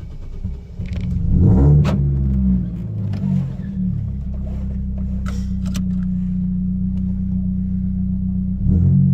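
Chevrolet Celta 1.0 four-cylinder engine with a 4x1 header and an open 2-inch exhaust without mufflers, running on ethanol. It is revved once about a second and a half in, drops back to a steady idle, and is blipped briefly near the end.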